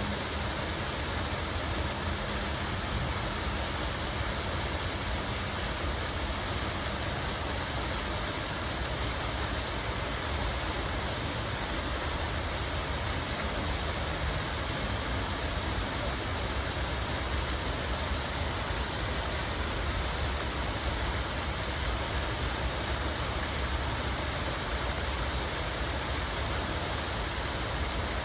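Steady rush of running water, even and unbroken, with a low rumble underneath.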